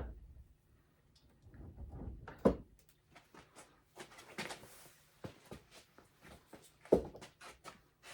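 Metal gearbox parts being handled and fitted together by hand: scattered knocks and clicks, with two sharper knocks about two and a half seconds in and again near seven seconds.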